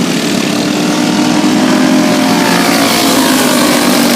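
Dirt-track stock car engines racing at speed, several running at once in a loud, continuous blare. The pitch drifts as cars go by.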